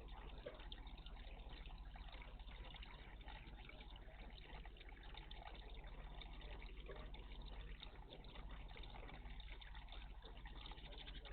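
Faint, steady trickling of water in a bird bath, with many small drips and splashes, over a low steady hum.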